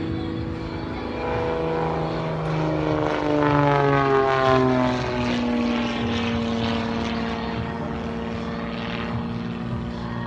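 Propeller airplane engine flying past, loudest a few seconds in, its pitch dropping as it goes by and then holding lower as it moves away.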